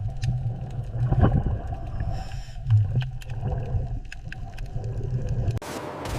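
Underwater ambience: a steady low hum with scattered sharp clicks. About five and a half seconds in it cuts to a different, hissing sound.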